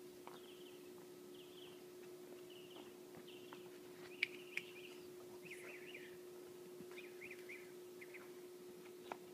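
Faint outdoor ambience: small birds chirping in short, repeated calls over a steady low hum, with a couple of sharp clicks about four seconds in.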